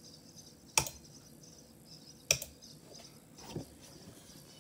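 Computer keyboard keys pressed one at a time: three sharp clicks about a second and a half apart, the last one fainter.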